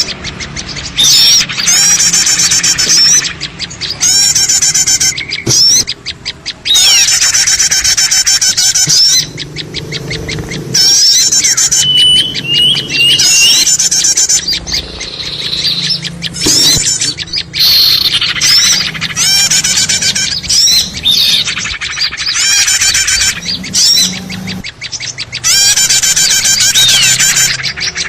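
A busy chorus of many small birds chirping and twittering at once: a noisy lure recording made to draw small birds in for trapping. Rapid, high chirps come in loud spells with brief lulls between them.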